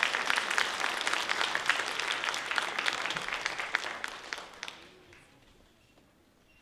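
Audience applauding, a dense patter of many hands that dies away about five seconds in.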